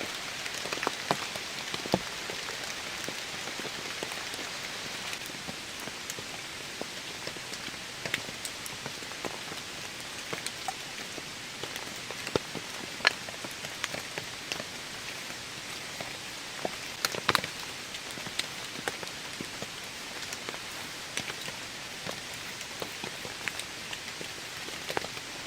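Steady rain falling, an even hiss, with scattered sharp ticks of single heavier drops landing close by.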